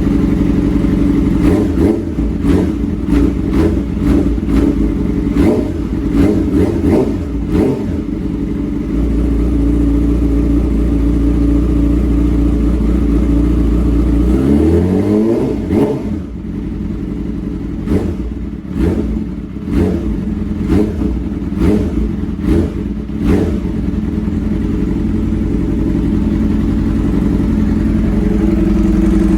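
Yamaha R6 inline-four sport bike engine through an SC Project aftermarket exhaust, running loud. There are two runs of sharp revs or cracks, and one smooth rise in revs about halfway through.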